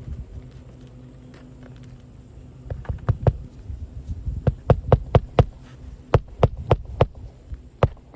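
Hammer driving roofing nails into asphalt shingles: a few seconds in, sharp strikes start, coming in quick groups of three to five. A steady low hum runs underneath before the strikes begin.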